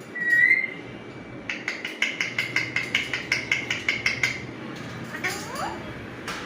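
Alexandrine parakeet calling: a short squawk, then a rapid run of sharp clicking chatter notes, about five a second, for roughly three seconds. Faint gliding notes follow near the end.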